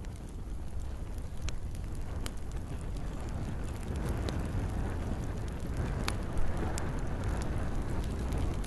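Campfire burning with scattered sharp crackles and pops over a steady low rumble, with rain falling. The loudest pop comes about six seconds in.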